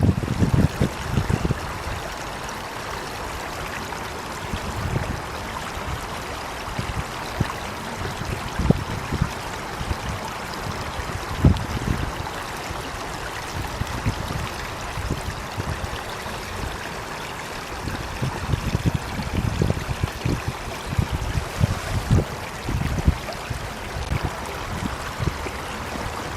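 Water rushing steadily, like a stream, with irregular low rumbles that swell and fade, strongest near the start and in the last third.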